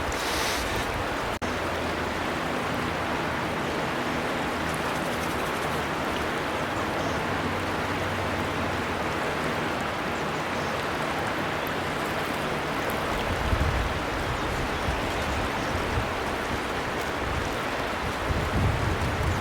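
A river flowing steadily, an even rush of water. It drops out for an instant about a second and a half in, and low rumbles come in during the second half.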